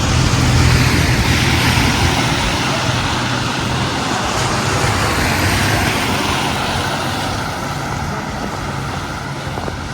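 A road vehicle passing close by: a steady low engine or motor hum under broad tyre noise, loudest about a second in and slowly fading away.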